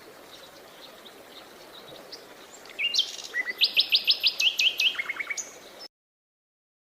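Songbirds chirping: faint scattered calls, then about three seconds in a bird sings loudly, a quick run of repeated sharp high notes followed by a few lower ones. The sound cuts off abruptly near the end.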